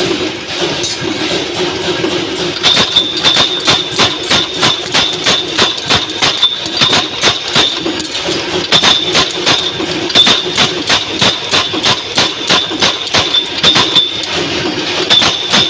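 Power punch press stamping wing-shaped washers from 2.3 mm thick steel strip, hitting in a fast, even rhythm of sharp strokes over the steady hum of the running machine.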